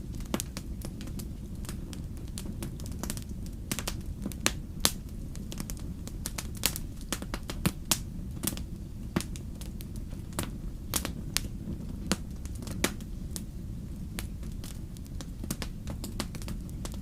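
Wood fire crackling: irregular sharp pops and snaps, several of them louder, over a steady low rumble.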